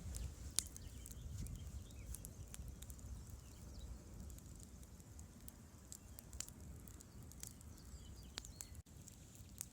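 Campfire crackling: irregular sharp pops and snaps, the loudest about half a second in, over a steady low rumble.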